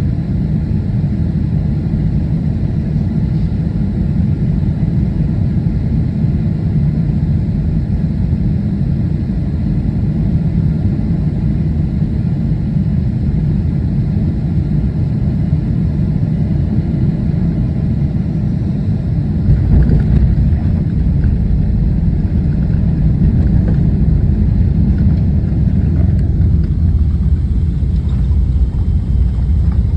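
Airliner landing: a steady low rumble of engines and rushing air that grows louder about twenty seconds in.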